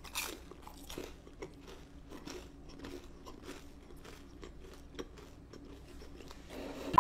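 Close-miked crunchy chewing of sauce-dipped fried chicken gizzards (dakttongjip twigim): a crisp bite just after the start, then a steady run of small crunches as she chews.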